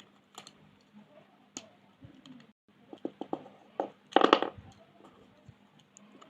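Coloured pencils and pens being handled on paper: scattered light clicks and taps, then a louder, brief scratchy rustle about four seconds in.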